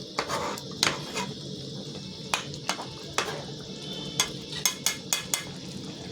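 A metal spoon knocking and clinking against a cooking pot while stirring: about ten sharp knocks, several in quick succession in the second half.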